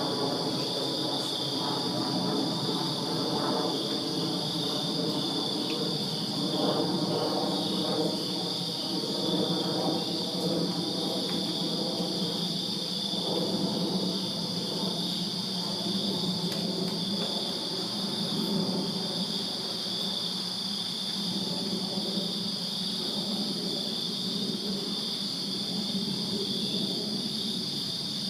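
Night chorus of crickets chirping steadily in a high, continuous shimmer, over a lower, uneven background rumble.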